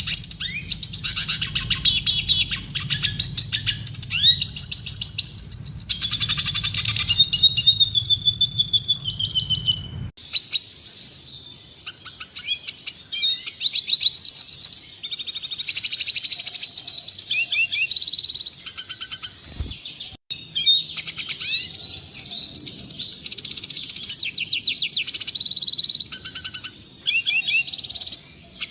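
Red siskin singing continuously: a fast run of high twittering trills and chattering notes. A low background hum under the song cuts off abruptly about a third of the way in.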